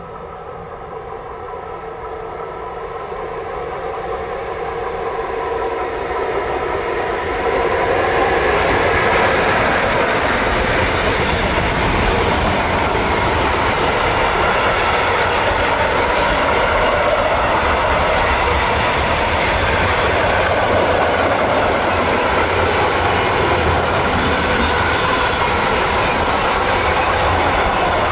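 Train approaching, growing steadily louder over about eight seconds, then passing close by at speed with a long, even run of wheel-on-rail noise and clatter.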